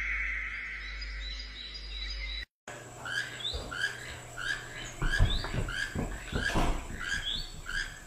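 Bird chirping: short, rising chirps repeated about twice a second, with a few low thuds in the middle. Before them, about two and a half seconds in, an abrupt cut ends a steady whistling tone with a few gliding notes.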